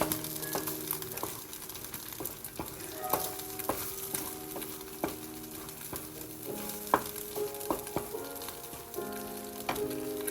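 Sizzling, crackling hiss with scattered sharp clicks, over a bed of held tones that shift a few times, like soft background music.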